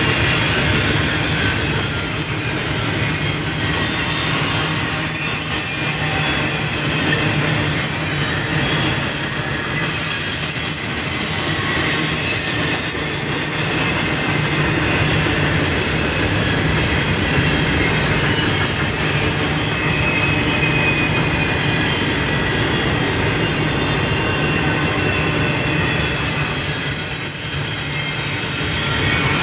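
Double-stack container train cars rolling past, steel wheels running on the rail with a steady rumble and clatter. Thin high-pitched metal squeals ring out over it through roughly the first half.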